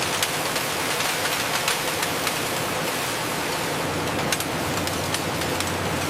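A steady, loud hiss with scattered sharp clicks and crackles.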